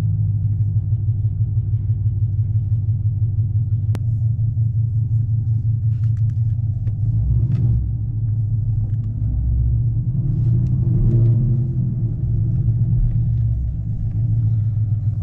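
Straight-piped Chevrolet Camaro V8 with headers cruising, its exhaust a steady low drone that swells a little around eleven seconds in. A single sharp click about four seconds in.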